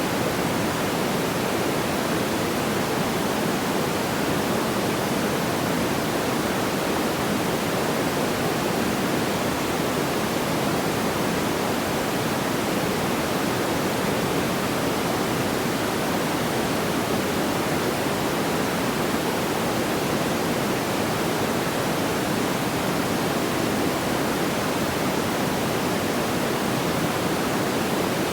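Steady, even rushing noise with no crackles or pops, unchanging throughout, with most of its weight in the low-middle range, like pink noise.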